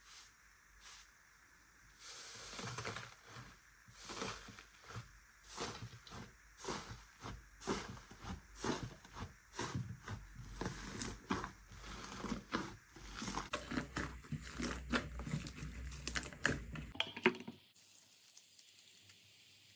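Slime being squeezed and worked by hand, making a quick irregular run of clicks and pops from about two seconds in. Near the end it stops abruptly and gives way to a soft steady hiss.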